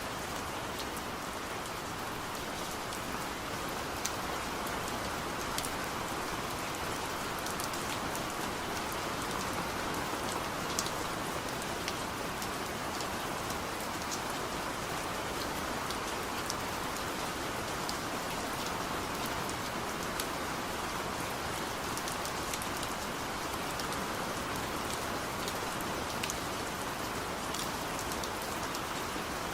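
Steady rain falling, an even patter with scattered sharper drop ticks throughout.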